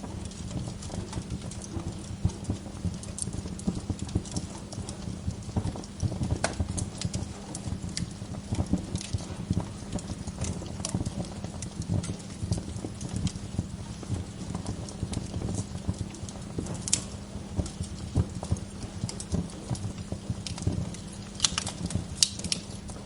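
Wood fire crackling continuously, with sharp pops of burning logs now and then and a small cluster of louder pops near the end.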